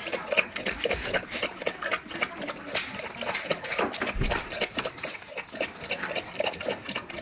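A dog lapping water with quick, even laps, about four to five a second.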